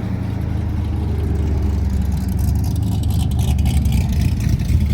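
Cammed Corvette V8 running with a choppy, uneven lope, the "chopping" of an aggressive camshaft.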